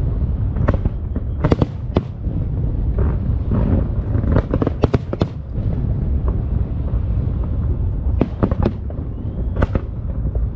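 Fireworks bursting: a steady low rumble of explosions under many sharp cracks that come irregularly in bunches, several at a time.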